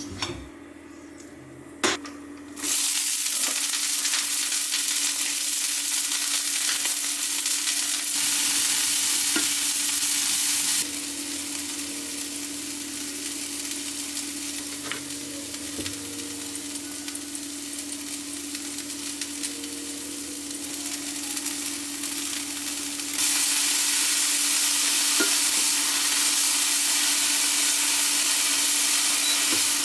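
Soybean sprouts sizzling as they stir-fry in a stainless steel frying pan, stirred with a wooden spatula. The sizzle starts suddenly a few seconds in, eases off partway through and grows louder again for the last several seconds.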